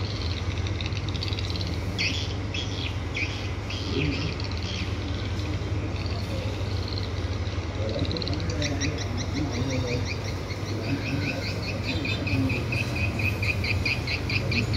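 High bird chirping over a steady low hum: scattered chirps at first, then a quick run of repeated chirps from about eight seconds in.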